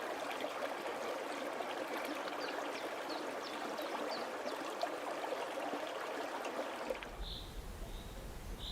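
Stream water running and trickling, with a few faint high chirps over it. About seven seconds in, the water sound cuts off abruptly and gives way to a quieter ambience with a low rumble and short, high bird-like calls.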